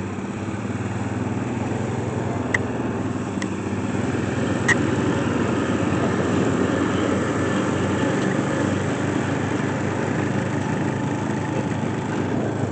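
Four-wheeler and mowing tractor engines running steadily while driving, with three short sharp clicks in the first five seconds.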